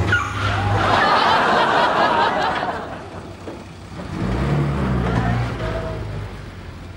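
Mini 1000's small four-cylinder engine running as the car drives in under a barrier arm and pulls into a parking space, with a burst of audience laughter about a second in.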